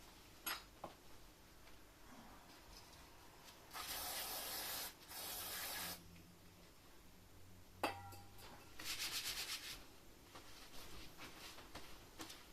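Hand rubbing and scraping on the engine's gasket surface in a few short spells of hiss-like strokes, with a few light clicks and one sharp knock of a tool about two-thirds of the way through.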